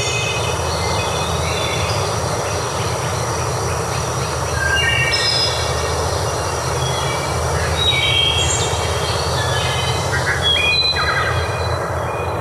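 Steady rush of flowing water with birds singing over it: several short phrases of bright, stepped notes about every two to three seconds.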